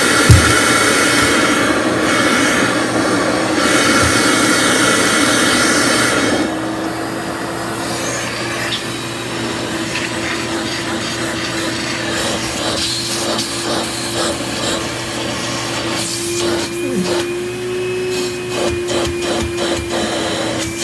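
Vorwerk VK 121 upright vacuum running, with a sharp thump just after the start. About six seconds in the sound drops to a quieter steady hum, and rapid clicking and rattling join it near the end.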